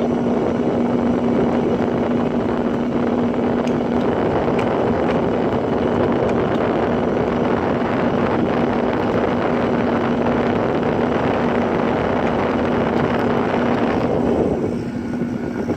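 Sharp Comfort Touch window air conditioner running: the fan blowing a steady rush of air over a steady motor hum. Near the end the air rush quietens while the hum carries on.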